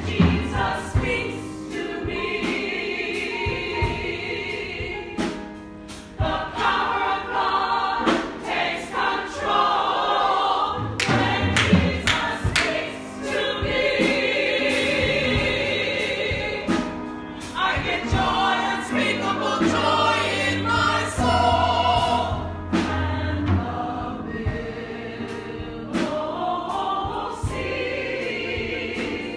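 A church congregation singing a gospel song together, with a steady bass line and sharp percussive hits.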